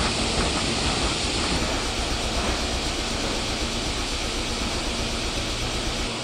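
Electric train at a station platform: a steady rumble and rushing hiss that eases slightly near the end.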